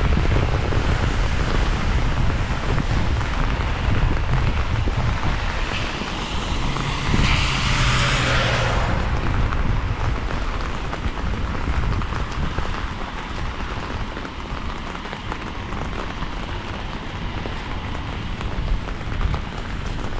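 Steady rain hiss with wind rumbling on the microphone. About seven seconds in, a car passes, its tyres hissing on the wet road over a low engine hum, then fading.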